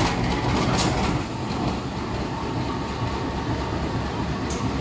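Passenger train rolling along the track: a steady low rumble with a few sharp clicks from the wheels.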